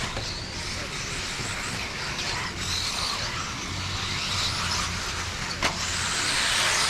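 Radio-controlled off-road race cars running on a dirt track: a steady mix of motor whine that rises and falls as the cars accelerate and brake, with tyre and gravel noise. There is one sharp click about five and a half seconds in, and the sound swells near the end.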